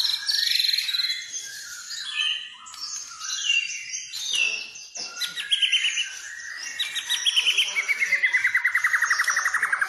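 White-rumped shama (murai batu) singing a varied song of quick whistled phrases and chips. From about seven seconds in, a long rapid trill slides steadily down in pitch.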